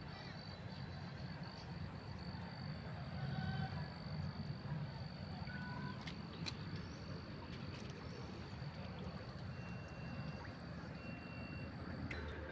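Outdoor nature ambience: a steady high-pitched insect trill that stops near the end, a few short whistled bird notes at different pitches, and a low background rumble.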